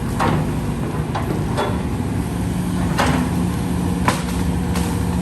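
Heavy earthmoving machine's engine running steadily, with about six sharp knocks and clanks spread through it.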